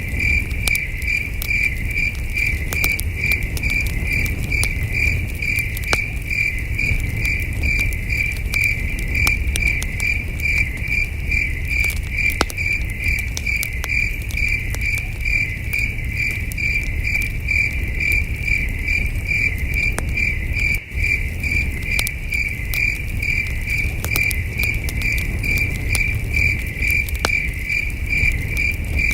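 Crickets chirping in a steady, even pulse a few times a second, over the scattered pops and crackles of a campfire and a low rumble.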